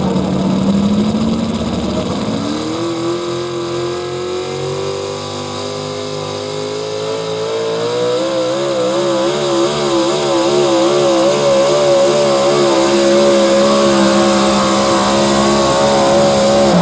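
Modified 4x4 pulling truck's engine revving up at the launch and then running at high revs under load as it drags the sled, its pitch wavering from about halfway through. The sound cuts off suddenly at the end.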